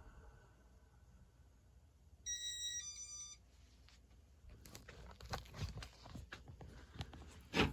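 A short electronic beep of two steady pitched tones in quick succession, about two seconds in. After it come faint scattered clicks and rubbing handling noises, with a sharper knock near the end.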